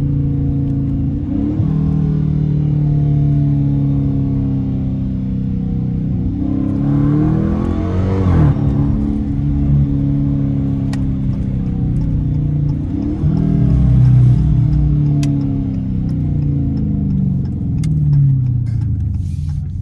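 Dodge Challenger R/T's straight-piped 5.7-litre Hemi V8 accelerating hard. The exhaust note climbs in pitch and drops back again several times as it goes through the gears, loudest in two pulls about a third and two-thirds of the way in.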